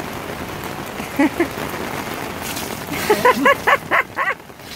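A small dog yipping over steady rain: two short yips about a second in, then a quick run of about six near the end.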